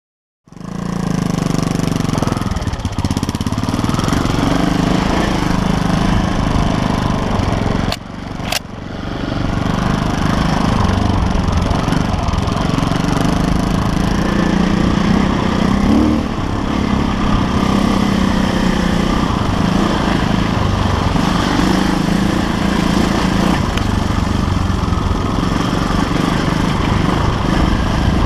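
KTM LC4 350 single-cylinder four-stroke enduro motorcycle engine running under a rider, starting about half a second in, with a brief drop in level and two sharp clicks about eight seconds in.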